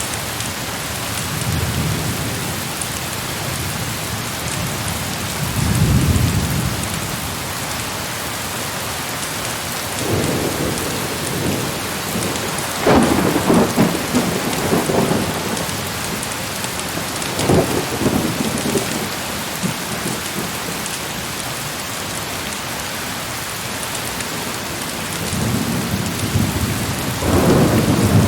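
Heavy rain falling steadily, with repeated rolls of thunder over it: a few low rumbles in the first half, a sharper crackling clap about halfway through, and another rumble building near the end.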